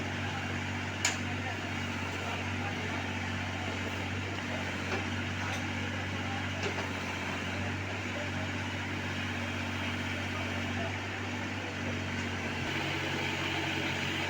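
Tractor engine of a tractor-fitted backhoe loader running steadily, with one sharp knock about a second in.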